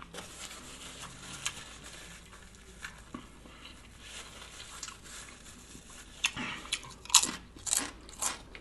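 Close-miked chewing of a lettuce-wrapped sub sandwich, with soft mouth sounds at first and a run of crisp crunches in the last two or three seconds.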